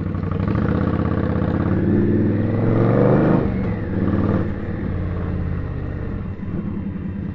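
Indian Scout motorcycle's V-twin engine accelerating, its pitch rising for about three seconds, then falling suddenly as the revs drop, and settling into a steady lower run.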